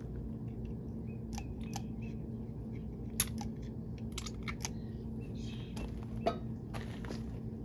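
Scattered light clicks and taps of metal parts and tools being handled during a hydraulic cylinder seal job, the sharpest about three seconds in. A steady low hum runs underneath.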